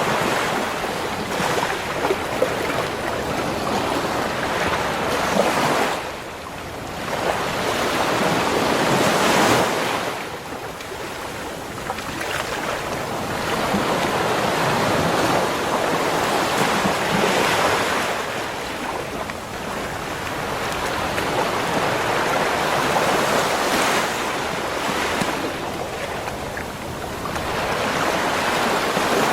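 Waves breaking on a beach and washing up the shore, the surf swelling and easing off every few seconds, with some wind on the microphone.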